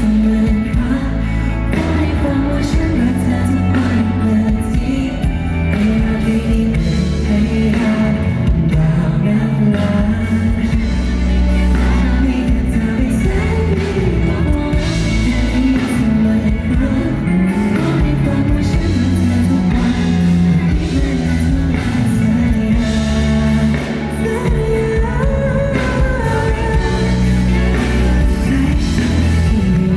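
Pop song performed live: a male singer's voice carrying the melody over a band backing.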